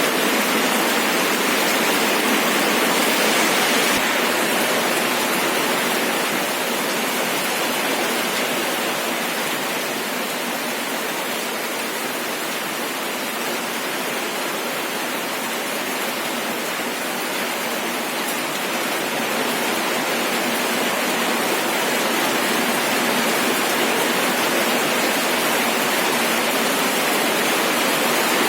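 Steady rain falling, a dense, even hiss of many drops with no single drop standing out. It eases slightly partway through and builds back up near the end.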